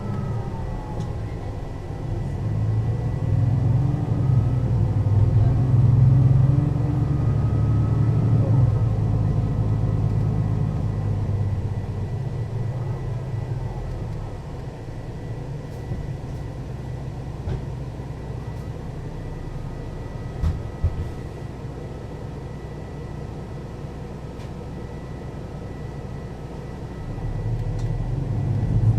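Mercedes-Benz O 530 Citaro city bus engine and ZF automatic gearbox under way: a loud, low run with gliding pitch for the first dozen seconds, easing to a quieter steady run about halfway, then building again near the end. A couple of thumps come about two-thirds of the way in.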